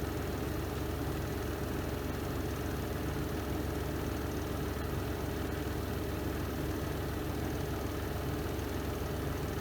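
Spin drum of a Renova semi-automatic twin-tub washing machine running steadily through the spin cycle, a constant low hum.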